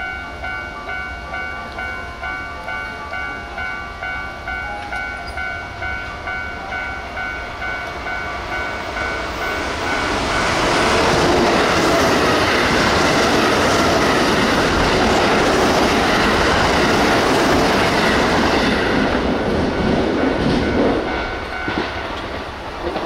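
Railway level-crossing warning bell ringing about twice a second, then an electric train runs past, loud enough to cover the bell for about ten seconds, before the bell is heard again near the end.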